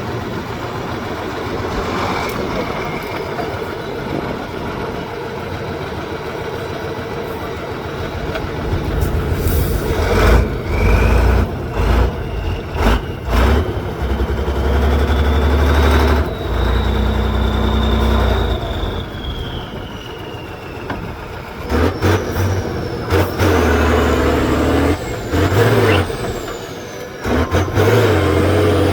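Heavy off-road trial truck's diesel engine running and revving hard in repeated bursts, with a high whine that rises and falls in the second half.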